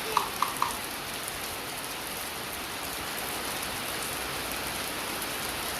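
Heavy rain falling steadily, an even hiss of rain on surfaces, with three short sharp sounds in the first second.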